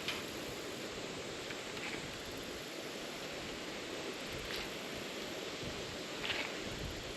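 Steady rushing outdoor noise of river water and wind around a small boat, with a few brief soft rustles.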